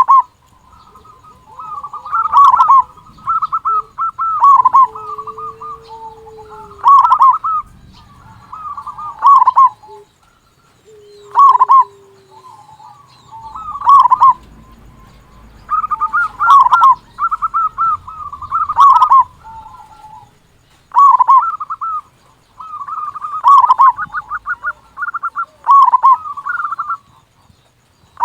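Zebra dove (perkutut) singing its cooing song over and over, a phrase about every two seconds. Each phrase is a quick run of rolling notes that ends in a loud coo.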